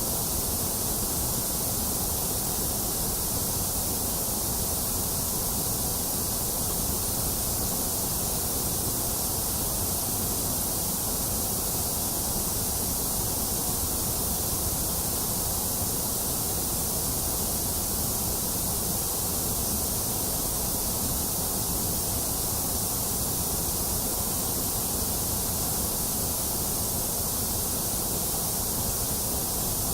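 Steady white noise: a continuous, unchanging hiss, strongest in the very high and deep ranges.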